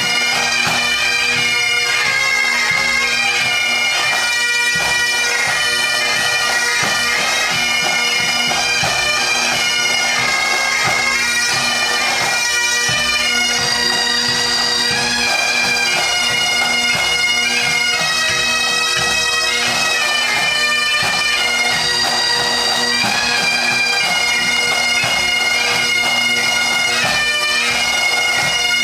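Massed pipe band playing: many Highland bagpipes sounding a melody over a steady drone, with snare and bass drums underneath.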